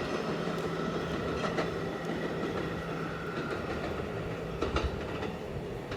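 Subway train running on the track, with a steady hum and occasional wheel clicks over rail joints; a low steady tone drops out about three-quarters of the way through.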